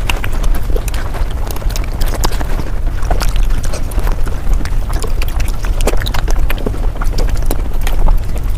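Mukbang eating sounds sped up: a rapid, dense stream of chewing and mouth clicks over a steady low rumble.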